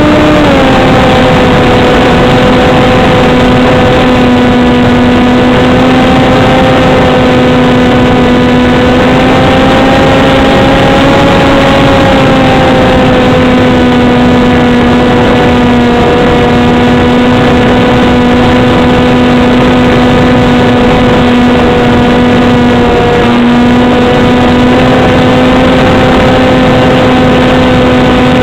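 RC foam flying wing's motor and propeller running steadily in flight, recorded up close by a camera on the wing, with wind rushing over the microphone. The prop's hum drops slightly in pitch about half a second in, then holds nearly steady with small wavers.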